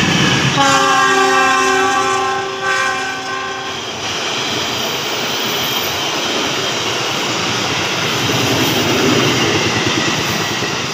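Diesel locomotive's horn sounding one chord of several steady tones for about three seconds as it passes close, followed by the steady rumble of passenger coaches rolling by on the rails.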